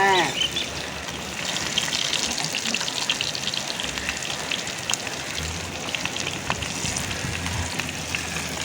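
Fish frying in hot oil in a kadai: a steady sizzling hiss with many small crackles and pops.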